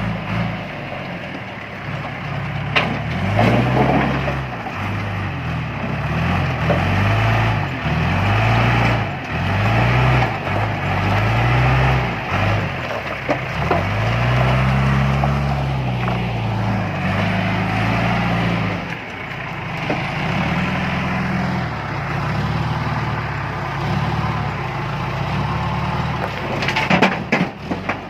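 John Deere 310E backhoe loader's diesel engine revving up and falling back again and again as it works the loader under hydraulic load. Rocks clatter and scrape about three seconds in and again near the end.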